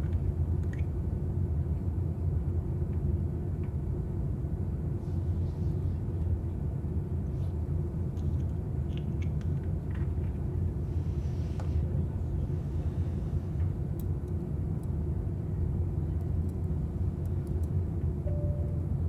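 Steady low rumble of an airliner cabin in flight, with faint, scattered rustling of fabric. A short tone sounds near the end.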